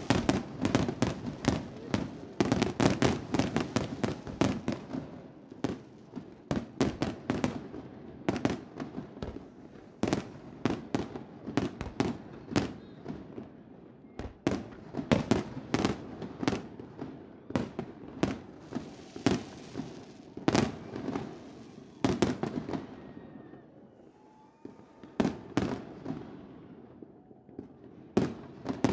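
Fireworks going off in a dense string of sharp bangs and crackles, thinning out past the middle, with a brief hiss about two-thirds of the way in.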